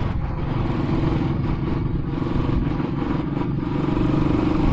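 Royal Enfield Classic 500's single-cylinder engine running steadily as the motorcycle cruises, with road and wind noise over it; it gets slightly louder near the end.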